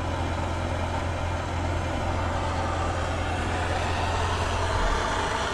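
A heating torch running steadily on a big seized nut: a constant hiss over a low rumble that cuts off about five seconds in.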